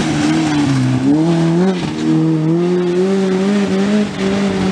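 Peugeot 106 rally car's engine revving hard on a special stage. The pitch climbs and dips twice in the first two seconds as the driver lifts and changes gear, then holds at high revs.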